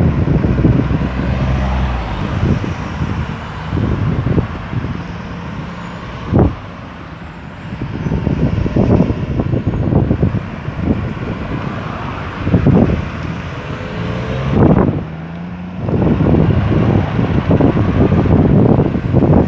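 Road traffic passing through a roundabout: a stream of car and heavier vehicle engines, several rising in pitch as they pull away, over steady tyre noise. There is one short thump about six seconds in.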